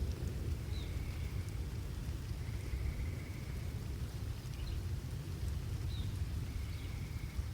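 Steady rain with a low rumble of thunder easing off at the start. Faint short chirps and brief trills of a small animal recur a few times over the rain.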